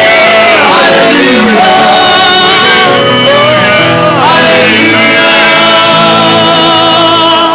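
Church worship singing with instrumental accompaniment: voices hold long, wavering notes and slide between pitches over a steady band.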